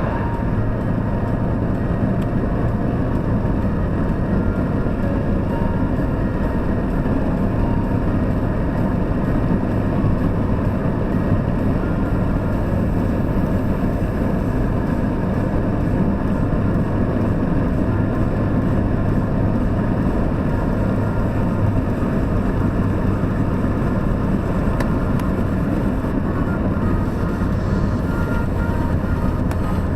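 Opel Astra G 2.0 DTi four-cylinder turbodiesel engine running steadily: a low, even drone with a broad rushing noise over it, and no revving.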